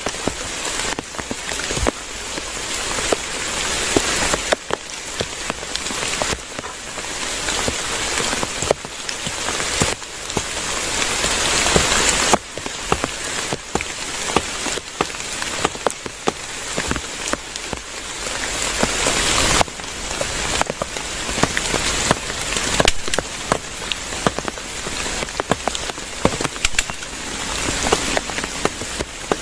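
Heavy rain falling steadily, with many separate drops tapping sharply on a nearby surface. It swells louder and eases back every few seconds.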